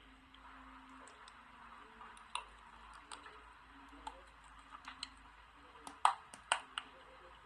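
Crisp clicks and snaps of a bar of soap being crunched or broken up close to the microphone. They come irregularly and grow more frequent, with the loudest snaps about six seconds in.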